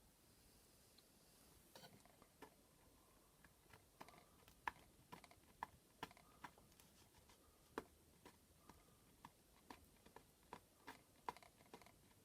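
Faint, irregular small clicks and ticks, roughly one or two a second, from fingers picking and rubbing dried masking fluid off an acrylic-painted canvas.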